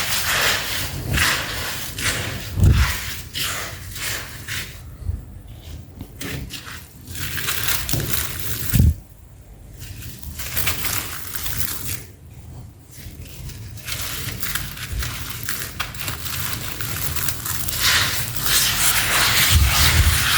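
Sand-cement chunks crumbling and crunching in a gritty crackle, with dull thumps about 3 and 9 seconds in and a few short pauses.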